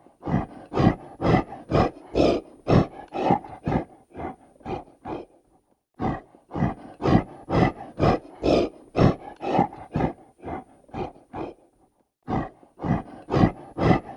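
An animal sound: short, evenly spaced bursts about two a second, in three runs with brief pauses between them.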